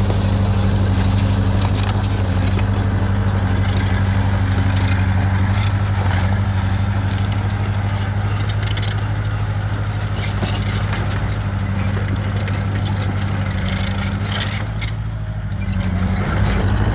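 Diesel engine of a bulldozer running steadily under load, a deep constant drone with metallic rattling and clinking over it. It eases off briefly near the end, then picks up again.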